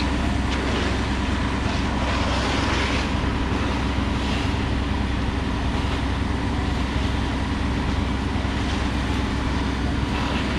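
Engines running steadily, a low even drone with a constant hiss over it.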